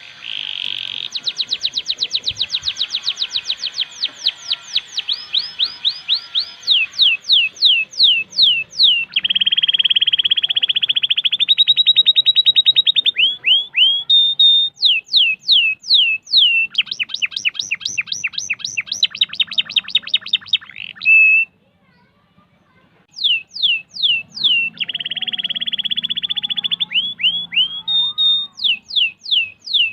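Domestic canary singing a long rolling song of tight, fast trills: buzzing rolls of rapidly repeated notes alternate with rapid series of down-sweeping whistles, with one short break about two-thirds of the way through.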